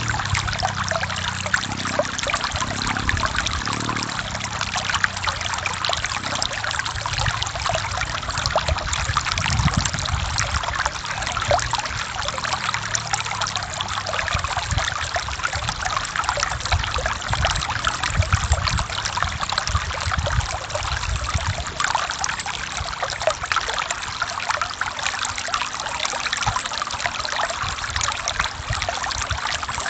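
Forest stream flowing over rocks: a steady splashing and trickling of running water, with a low rumble that swells and fades every few seconds.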